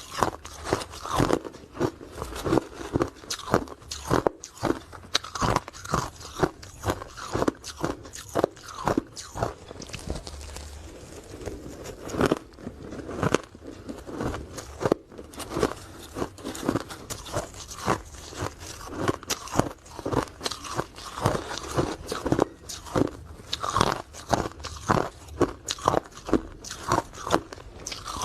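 A person biting and chewing hard ice cubes close to the microphone: loud, sharp crunches in quick irregular succession, several a second, with a brief lull in the middle.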